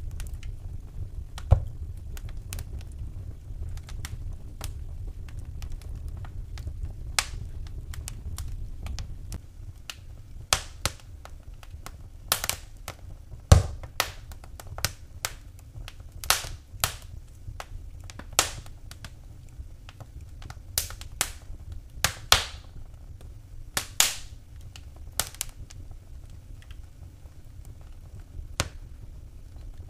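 Wood fire burning in a fireplace, crackling with irregular sharp pops and snaps over a steady low rumble. The pops come thickest through the middle of the stretch, with a few louder snaps among them.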